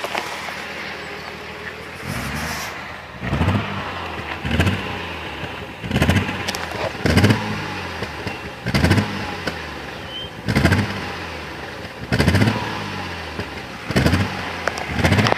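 Lotus Omega's twin-turbo straight-six running with a misfire. Its revs rise and fall in a repeating surge, about ten times, roughly every one and a half seconds.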